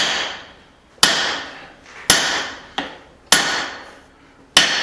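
Steel hammer striking a punch that is being driven through a hot steel hammerhead to punch its eye: five heavy blows about a second apart, each ringing out and fading, with one lighter tap between them. The punch has no flat tip, so it is shearing through the steel rather than pushing out a plug.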